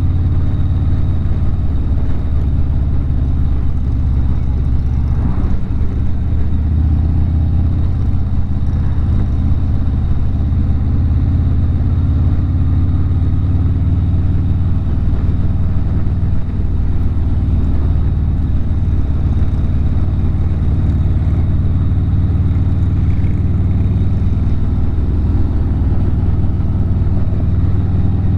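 Harley-Davidson V-twin motorcycle engine running steadily while cruising on the road, with an even low engine tone that holds without revving up or down.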